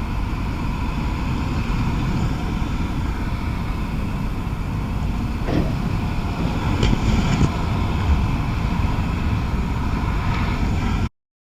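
Steady engine and tyre noise of a car driving, with a few faint clicks a little past halfway.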